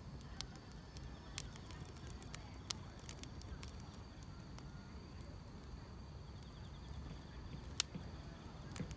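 Wood fire crackling with scattered sharp pops, the loudest near the end, over a faint steady chorus of insects.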